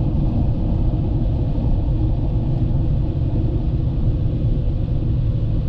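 Steady low rumble of a pickup truck on the move, heard from inside the cab: its 5.4-litre V8 and road noise.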